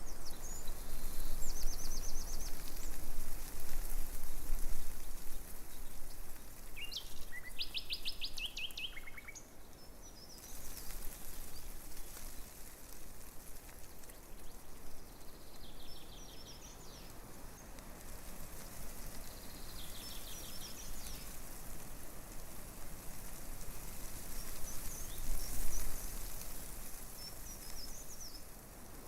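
Breeze rustling tree leaves in swelling and fading gusts, while small birds sing rapid trills and short chirps several times over it.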